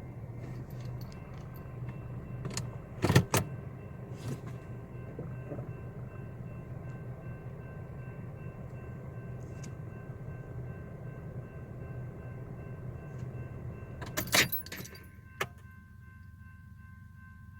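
Steady low engine rumble with faint steady tones, broken by a few sharp clicks and rattles about three seconds in and again around fourteen seconds; the rumble drops away near the end.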